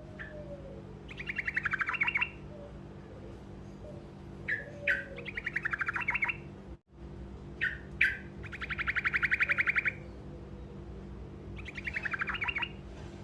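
Truco bird singing short rolling trills: four fast, rattling bursts of about one to two seconds each, over a steady low electrical hum, with a momentary dropout about halfway through.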